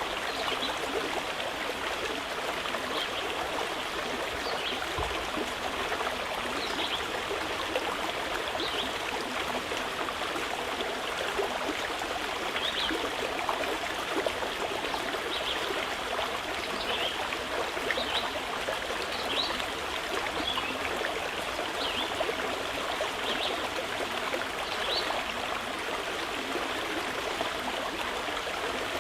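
Mountain river flowing steadily over rocks, a constant rushing and trickling, with short high bird chirps scattered over it every second or two.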